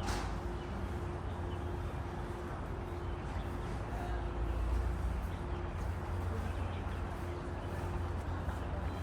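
Outdoor ambience of a steady low rumble of distant city traffic, with a faint steady hum underneath.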